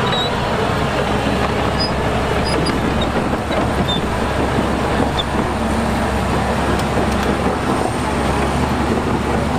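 Heavy diesel earthmoving machinery running steadily, a constant loud engine rumble with no pauses.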